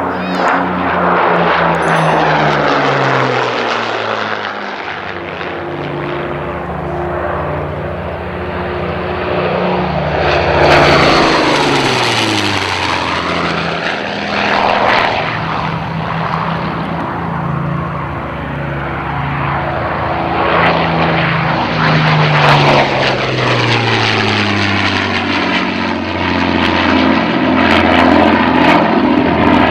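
Twin Rolls-Royce Merlin V12 engines of a de Havilland Mosquito at high power during low-level flybys. The engine note drops in pitch each time the aircraft passes, with the loudest passes about a third of the way in and near the end.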